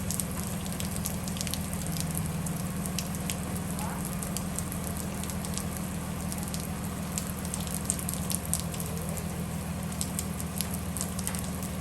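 Bus engine running with a steady low hum, and rain ticking and crackling against the windows and roof.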